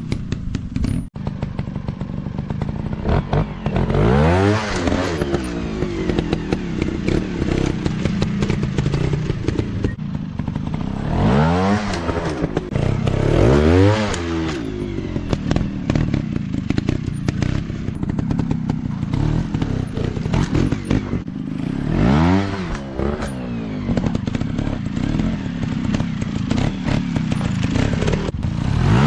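Dirt bike engine running throughout, revved hard several times with the pitch rising and falling, with the clatter of the bike working over rough ground.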